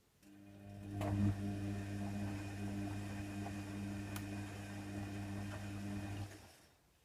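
Hoover Nextra HNWL7146 washer dryer with an electric pump or motor inside it humming steadily for about six seconds, then cutting off.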